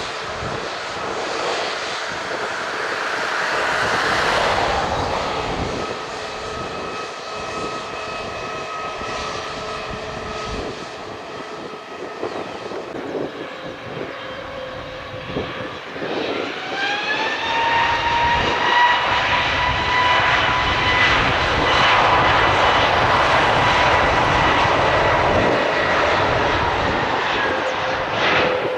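Airbus A320neo turbofan engines running with a steady whine and jet noise, then spooling up about halfway through. Their pitch rises quickly and holds as a loud, high whine at takeoff thrust.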